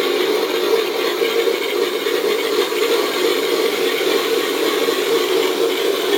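A twin-engine sound module plays simulated piston engines idling steadily through two small onboard speakers in an electric P-38 model plane. Each engine has its own sound track, set slightly out of sync so the two sound like separate engines.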